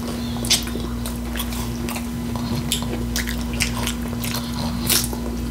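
Close-miked eating: irregular crisp crunches and mouth sounds as taco salad with crushed Flamin' Hot Doritos is chewed, over a steady low electrical hum.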